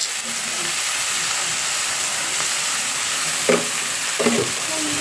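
Chicken, onion and tomato frying in coconut oil in a pan, with a steady sizzle as the mixture is stirred. Two short knocks near the end.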